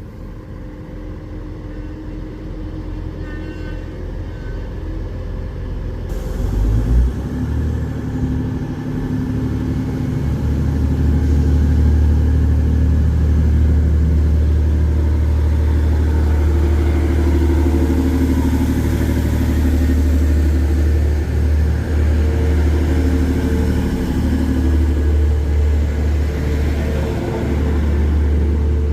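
Diesel multiple unit train running through the station. A low rumble builds over the first several seconds into a loud, steady low engine drone, with engine notes rising and falling in the second half.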